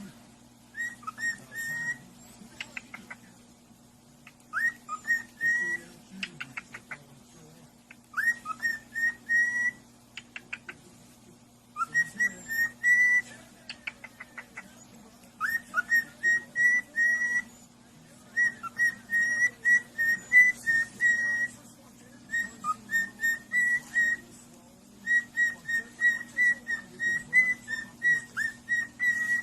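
A pet parrot whistling a tune in short repeated phrases of quick high notes, the phrases coming closer together after about fifteen seconds, over a steady low hum.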